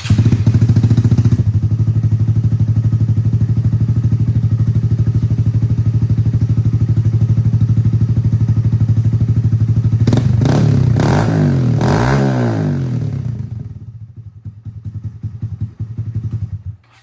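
Honda Grom's 125 cc single-cylinder engine running through a cheap aftermarket exhaust: steady running, then revved several times, the pitch rising and falling, about ten seconds in. It settles and cuts off suddenly near the end, the engine being shut off.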